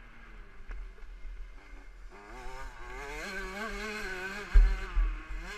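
KTM 65 SX two-stroke motocross engine being ridden hard, its revs climbing about two seconds in and rising and falling through the gears. Heavy low buffeting on the microphone comes in bursts near the end.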